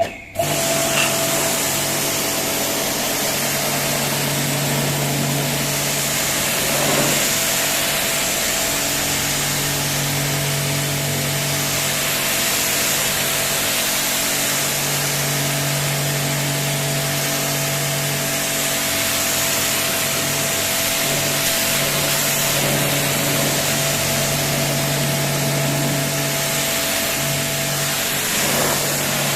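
Pressure washer running: a steady loud hiss of the high-pressure water jet over the low hum of the pump, which swells and eases every few seconds.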